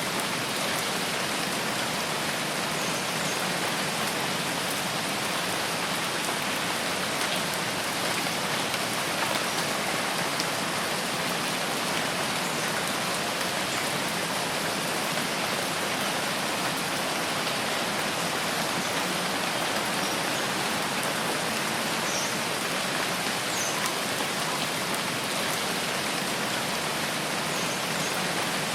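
Steady rain falling: an even, unbroken hiss with a few faint high ticks scattered through it.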